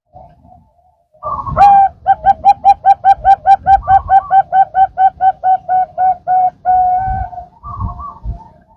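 Zebra dove (perkutut) song. An opening coo about a second in is followed by a fast, even run of short staccato coos, about five a second, for around five seconds. It ends in a longer held note and a few trailing coos.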